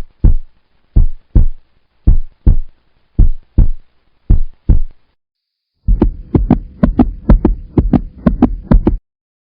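Heartbeat-like thumps: five double beats about a second apart. Then faster thumps, about four a second, come over a steady hum and stop suddenly about nine seconds in.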